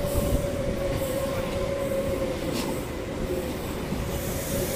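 V-set double-deck intercity electric train passing through the station, its wheels rumbling on the rails with a steady whine running underneath that sinks slightly in pitch.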